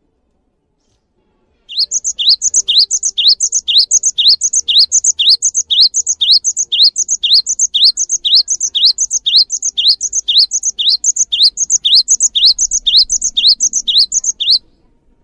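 A songbird repeating one sharp, rising high-pitched chirp about twice a second in a long even series. It starts about two seconds in and cuts off abruptly near the end.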